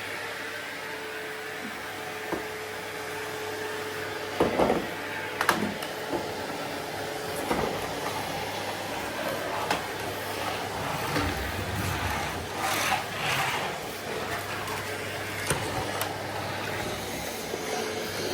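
Kärcher vacuum cleaner running steadily, with a faint steady hum in its noise, while the nozzle and hose knock and clatter against furniture and floor a dozen or so times from a few seconds in.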